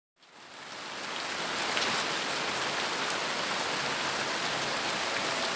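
Steady rain falling, fading in from silence in the first second, with a few faint drop ticks.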